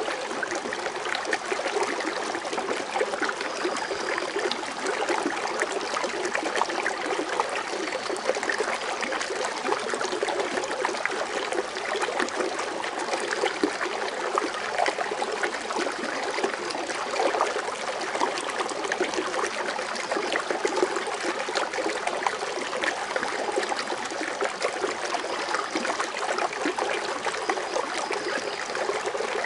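Foaming water fountain: a steady, even splashing and trickling of falling water.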